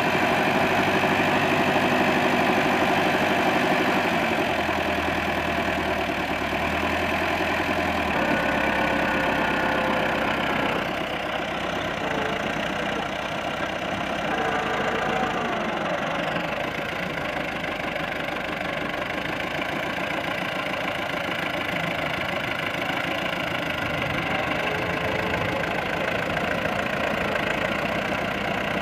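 Massey Ferguson tractor's diesel engine running steadily. Its note changes a few times in the first eleven seconds, then it settles a little quieter.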